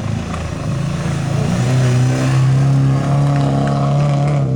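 Rally car engine running hard at high revs. Its pitch drops a little about a second and a half in, then holds steady.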